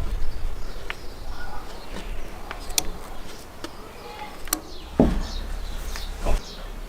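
A few sharp clicks and knocks over rural outdoor ambience with birds chirping. Low wind rumble on the microphone comes at the start and again about five seconds in.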